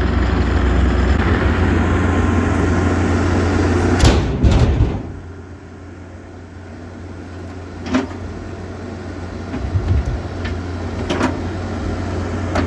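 A vehicle engine runs steadily. About four seconds in come two knocks like a door being shut, and the engine sound then drops away. A few scattered clicks and knocks follow.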